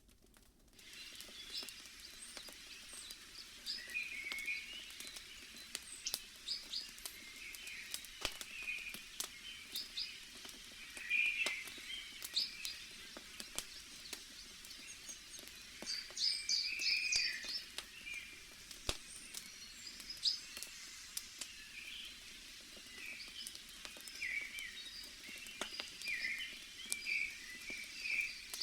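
Forest ambience of small birds chirping and singing, with sharp pops and crackles from a burning wood fire. The sound comes in about half a second in.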